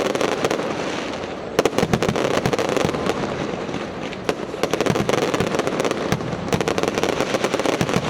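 Fireworks going off in rapid crackling volleys of sharp pops and bangs, densest about two seconds in and again from about five to seven seconds in.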